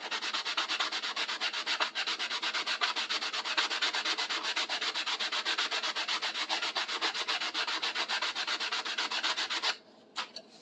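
Sandpaper rubbed by hand over the tapered end of a wooden tool handle in quick back-and-forth strokes, about four a second, stopping shortly before the end. This is the high spots of the taper being sanded down so the handle fits snugly in the tool's socket.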